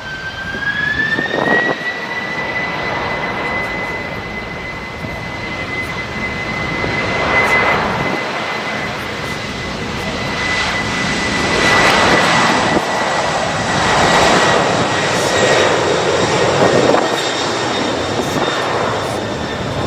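Airplane engines running loud, with a continuous roar and a high steady whine that rises in pitch about a second in and then holds.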